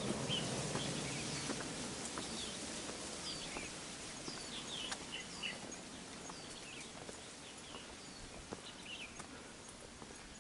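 Small birds calling in the scrub: many short, high, falling chirps scattered throughout. Under them, footsteps knock faintly on a wooden plank boardwalk.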